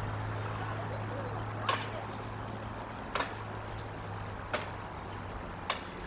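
A bird giving four short, sharp chirps spaced about a second and a half apart, over a steady low hum.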